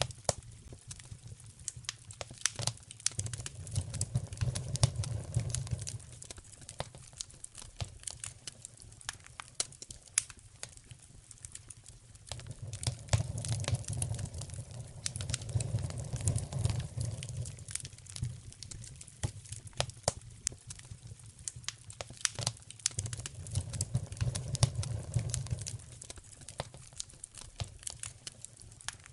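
Wood fire crackling in a fireplace, with many sharp pops and snaps. A low rumble swells and fades three times, around the start, the middle and past three-quarters of the way through.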